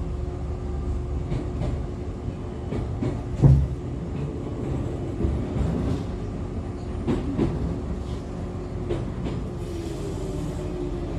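Onboard running sound of an Echizen Railway MC6101-series electric railcar, car MC6106, known as the car with an unusual running noise: a steady rumble of wheels and drive with a faint constant hum, broken by occasional knocks over rail joints. The heaviest knock comes about three and a half seconds in.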